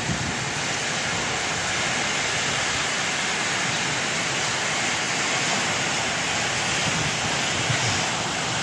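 Heavy tropical rainstorm: a steady, even rush of rain pouring down on the street and pavement.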